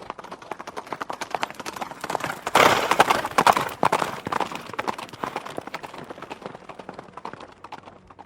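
Horse hooves clip-clopping in a quick, steady run of hoof strikes. They grow louder about two and a half seconds in, then gradually fade.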